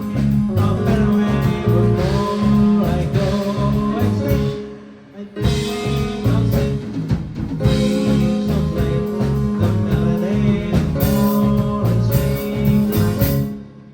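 Live band playing an instrumental passage over a steady low rhythm. The band stops briefly about five seconds in and again just before the end.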